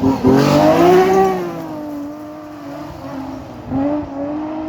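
BMW M3 engine running loud. Right at the start the note drops out briefly; the revs then climb and fall back within about two seconds and settle to a steady lower note, with a short blip of revs near the end.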